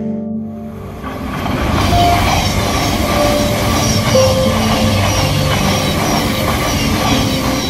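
Thameslink Class 700 electric multiple unit passing at speed: a loud, steady rush of wheel and rail noise that swells about a second in, with soft background music underneath.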